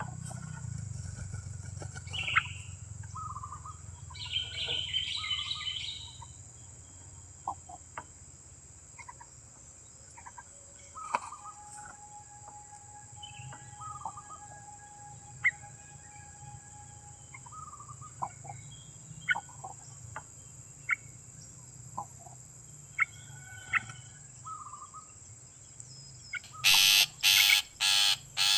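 Wild birds calling: scattered short chirps and whistles over a steady high-pitched buzz, then a rapid series of loud, harsh calls near the end.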